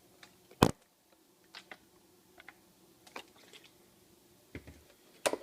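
Scattered short clicks and taps, with a sharp loud click about half a second in and another near the end.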